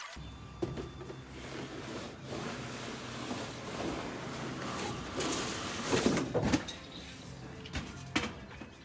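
Scraping and clunking of metal and floor material being pulled out of a truck cab, with a cluster of sharp knocks about six seconds in and another near the end, over a steady low hum.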